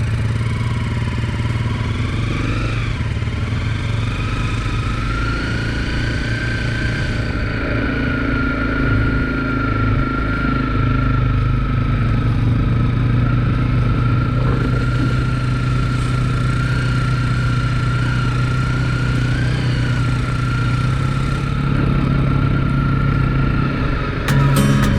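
Single-cylinder off-road engine running at a steady riding speed, with a steady high whine above it that drifts a little in pitch.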